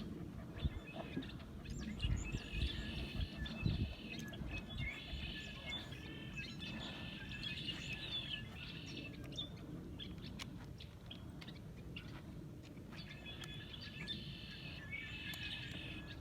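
Outdoor birds singing, repeating high, trilling song phrases of about a second each, with pauses between them. A few dull low thumps come in the first four seconds.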